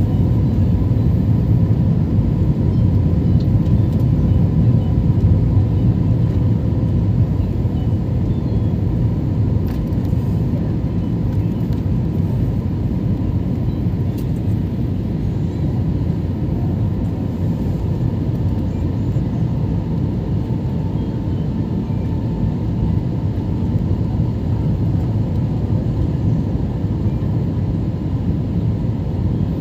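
Airliner cabin noise on the approach to landing: a steady, deep rumble of engines and airflow with a faint steady hum, easing slightly after about eight seconds.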